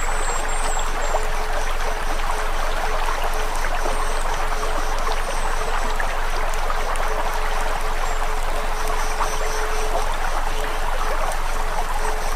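Steady running water, like a babbling stream, with a faint steady tone underneath and a few brief high bird-like chirps in the first second and again a few seconds in.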